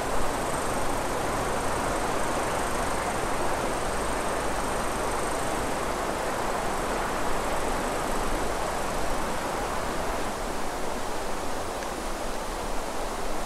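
Steady outdoor ambience: an even rushing hiss with no distinct events in it.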